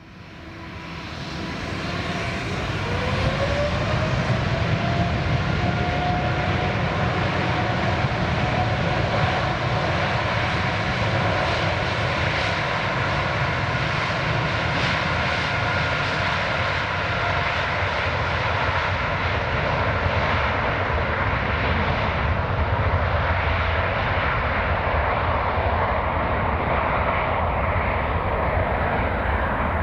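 Boeing 787-9 Dreamliner's twin jet engines at takeoff power on departure. The noise swells over the first few seconds, with a whine rising in pitch as the engines spool up, then holds loud and steady.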